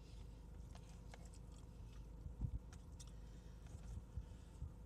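Faint chewing sounds with scattered small mouth clicks, and a soft low thump about halfway through.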